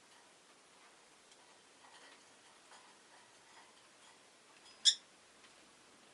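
A rosy-faced lovebird gives one short, sharp chirp about five seconds in, over faint, scattered ticking.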